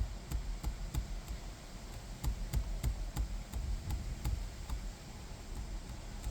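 Irregular clicking and tapping with dull low thumps: the buttons and controls of a car stereo head unit being pressed while its settings are adjusted.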